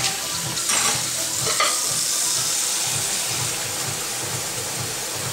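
Chopped chicken stir-frying in a hot pan with a teriyaki and sugar glaze, a steady sizzling hiss that is strongest about two seconds in.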